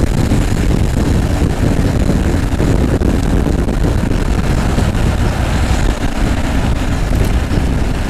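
Steady rushing wind and road noise from riding a moving electric motorcycle, heaviest in the low end, with no engine note.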